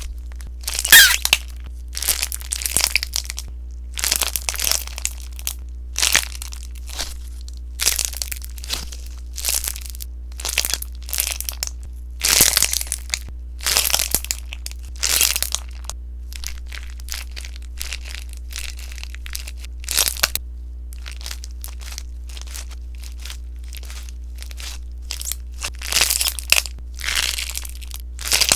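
Sponge slime being squeezed and pressed, giving clusters of crackles and pops. The bursts come about once a second and grow sparser and fainter for several seconds past the middle. A steady low hum runs underneath.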